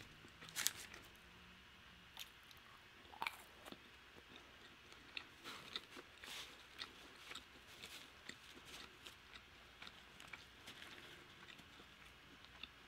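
Faint crunching and chewing of crispy cheese-powder-coated Korean fried chicken, in scattered irregular crunches.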